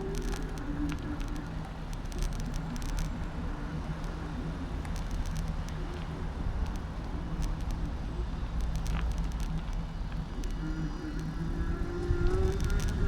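Bicycle ride heard from a handlebar-mounted camera: a steady low rumble of tyres and wind with scattered clicks and rattles, and a humming tone that comes back and climbs near the end.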